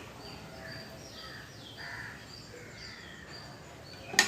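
Birds calling in the background: rapid, repeated high chirps with a few lower calls among them. A single sharp click sounds near the end.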